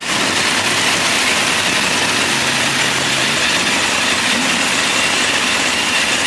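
A car engine running loudly and steadily, close by, starting abruptly.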